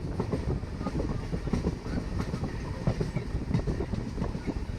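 Express passenger train running on the rails: a steady rumble with dense, irregular wheel clatter over the track.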